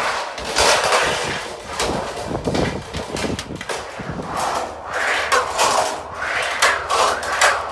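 Roof repair work with hand tools on metal roofing panels and wood: irregular knocks and clatter with bursts of scraping, denser in the second half.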